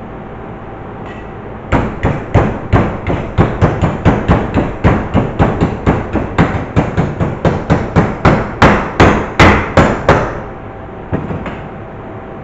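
Hammer striking metal in a fast, steady series, about three to four blows a second for around eight seconds, the blows getting harder toward the end. A couple of lighter taps follow.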